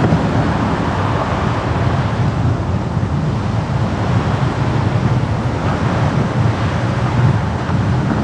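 Steady road noise of a car on the move: an even, deep tyre-and-wind rumble with hiss over it, unbroken throughout.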